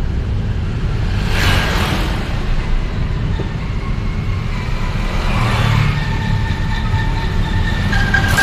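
Steady low rumble of engine and road noise from a vehicle travelling through town traffic, with louder rushes of noise about a second and a half in and again around five to six seconds, like other vehicles passing close by.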